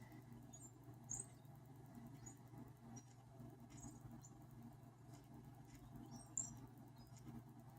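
Faint, short high-pitched whirs and squeaks from an Anki Vector robot's small motors as it moves about, coming at irregular intervals over a steady low hum.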